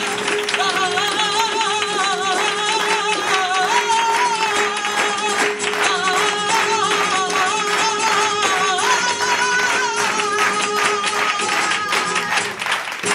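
Live flamenco in solea por bulerias: a singer's wavering, ornamented voice over guitar and dense, rapid percussive strikes. The music stops abruptly at the close of the piece.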